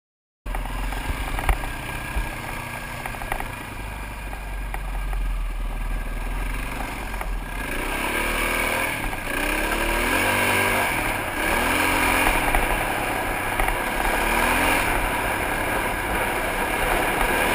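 Single-cylinder dirt bike engine under way, heard from a helmet with wind rushing over the microphone; the engine pitch rises and falls repeatedly as the rider throttles and shifts. It starts abruptly about half a second in.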